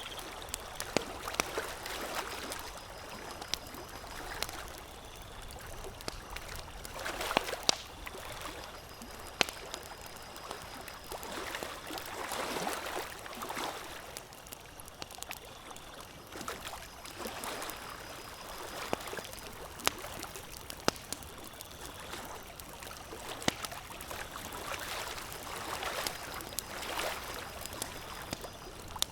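Campfire crackling with scattered sharp pops, over lake water lapping in slow swells every few seconds.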